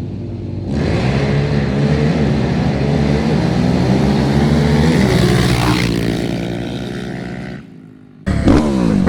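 Sport quad engine accelerating hard, its pitch climbing and dropping back in steps as it shifts up through the gears, then fading away. Near the end the sound briefly drops out and an engine is heard revving again.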